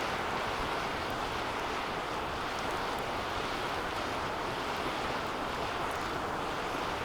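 Bonfire burning in a metal fire pit: a steady rushing roar of flames with a few faint, sparse crackles.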